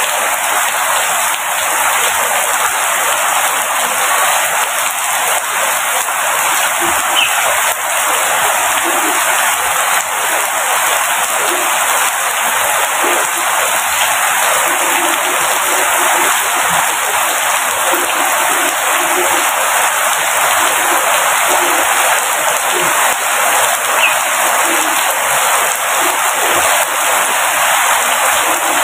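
Steady rain falling, a dense even hiss of drops that does not let up.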